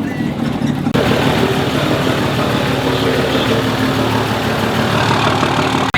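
Truck engine running with a steady low drone; about a second in the sound changes abruptly to a louder, fuller engine-and-road noise.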